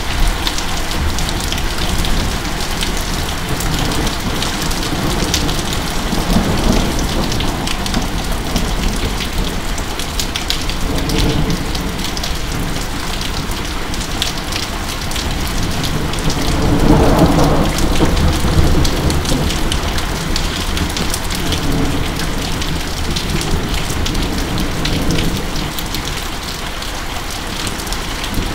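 Heavy rain falling steadily in a thunderstorm, with a roll of thunder swelling and fading a little past halfway and a fainter rumble earlier.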